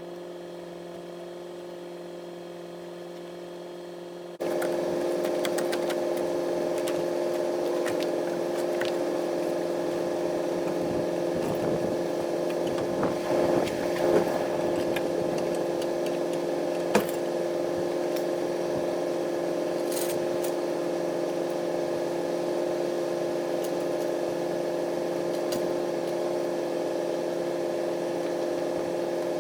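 A steady mechanical hum that jumps louder about four seconds in, with scattered clicks and clanks of metal over it.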